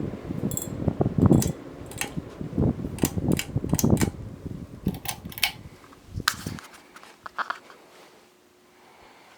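Jet King / Dynasty ceiling fan with a Taiwanese stack motor spinning down after being switched off from high. The air from its blades buffets the microphone, with scattered light clicks and ticks. The buffeting stops suddenly about two-thirds of the way through, leaving a faint hum and a few ticks.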